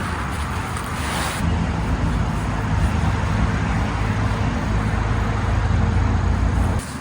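A steady low engine hum from a motor vehicle, coming in about a second and a half in after a stretch of rushing noise and cutting off just before the end.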